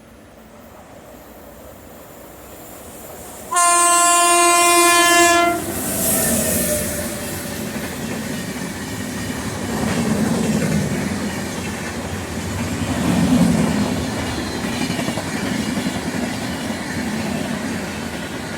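Train approaching, its locomotive horn sounding one loud blast of about two seconds, about three and a half seconds in. The train then passes close by, its wheels rumbling on the rails in waves.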